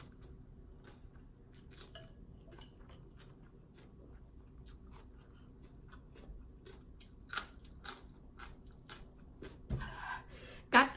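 Close-up chewing of khao poon noodle soup and chili: a run of small wet mouth clicks and crunches that grow louder in the second half, with one sharp louder click near the end.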